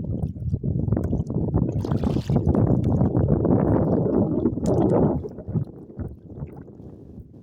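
Wind buffeting the microphone, mixed with water sloshing around a kayak hull; the rumble eases off about five seconds in.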